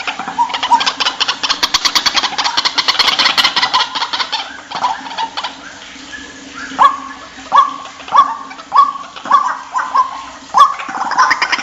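White-breasted waterhen calling: a fast stuttering chatter for the first few seconds, then about eight loud repeated calls roughly two-thirds of a second apart, each a short upward-sweeping note.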